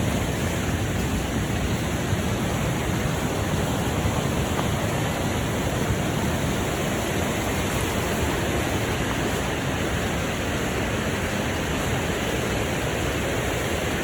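Waterfall rushing steadily: a continuous roar of falling water.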